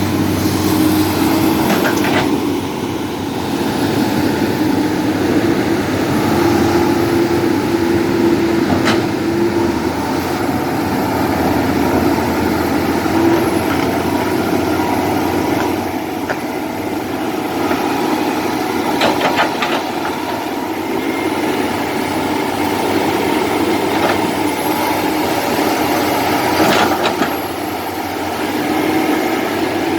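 Diesel engines of heavy tracked earthmoving machinery, an excavator and a bulldozer, running steadily with the load shifting. A few sharp knocks come through, one after about two seconds, one after about nine, a quick cluster near the middle and one more near the end.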